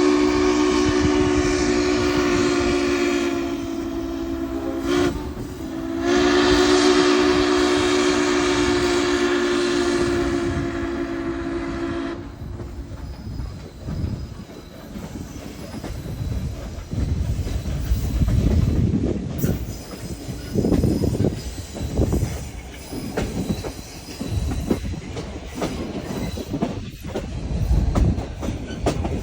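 Steam locomotive 1309's chime whistle sounds a long blast of several tones at once, breaks off briefly about five seconds in, then sounds a second long blast that ends about twelve seconds in. After that the train's low rumbling and clatter carry on alone.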